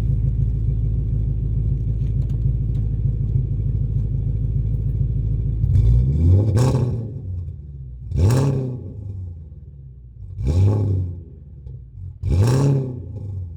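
Straight-piped V8 of a BMW 540i idling, then revved four times, short blips about two seconds apart, each rising in pitch and dropping back to idle.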